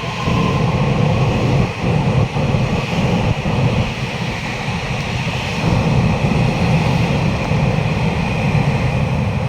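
A Taiwan Railways train passing through the station: a loud, steady rumble of wheels on track.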